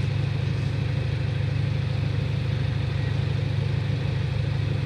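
Komatsu bulldozer's diesel engine running steadily with a deep, even drone.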